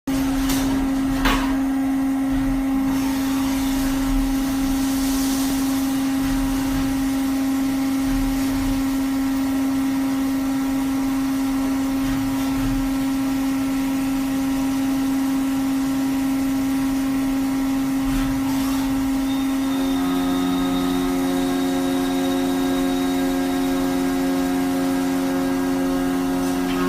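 Automatic lathe running: a steady motor hum at one constant pitch, with a sharp click about a second in. About twenty seconds in, further steady tones join the hum as another part of the machine starts running.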